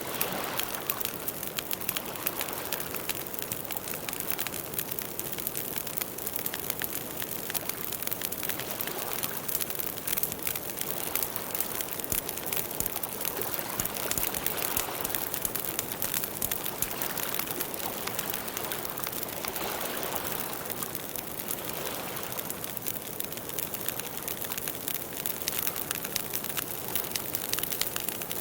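Wood campfire crackling steadily, with a dense run of small pops and snaps.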